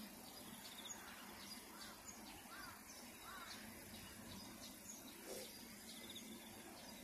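Quiet outdoor ambience with faint bird chirps, including a few short chirps around the middle.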